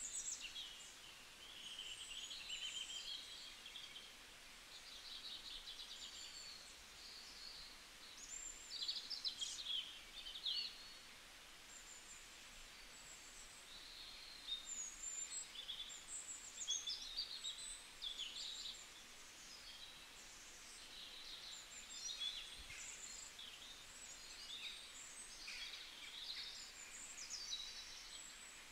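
Faint chirping of small birds: many short, high calls coming and going throughout, with brief lulls.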